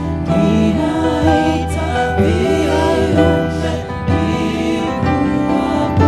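Gospel music with a choir singing over sustained accompaniment.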